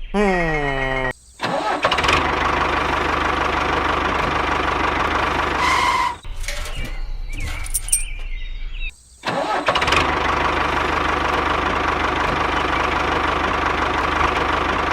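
Small motor of a DIY miniature tractor running with a steady hum. The sound is broken by a few abrupt cuts, and the pitch falls briefly in the first second.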